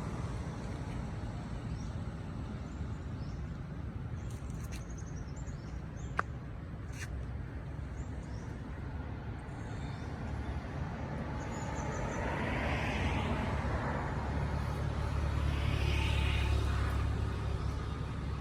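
Low, steady rumble of road vehicles running, swelling as one passes close by in the last third. There is a single sharp click about six seconds in.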